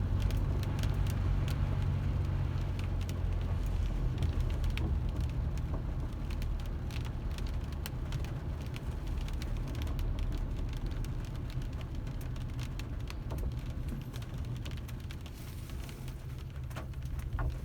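Car driving in the rain: a steady low engine and road rumble, with many scattered sharp ticks of raindrops.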